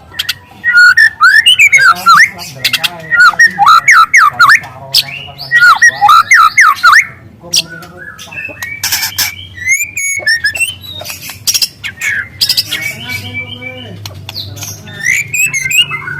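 Juvenile white-rumped shama singing loudly: fast runs of sweeping whistled notes mixed with harsh chattering strokes and canary-like bursts, with a brief pause about halfway through.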